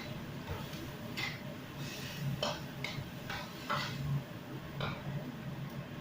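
Kitchen utensil and cookware handling: about seven short scrapes and clatters over a steady low hum.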